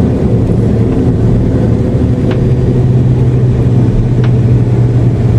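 Steady cabin drone of an Airbus A330-343 with Rolls-Royce Trent 700 engines, a strong even low hum, with two faint ticks about two seconds apart.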